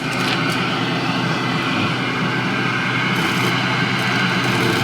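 Single-channel fume extractor's fan running steadily, a powerful rush of air through the unit with a faint hum.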